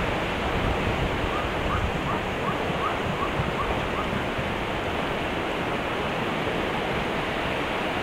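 Steady rushing background noise, with a quick run of about eight faint, short chirps from a small bird about one to four seconds in.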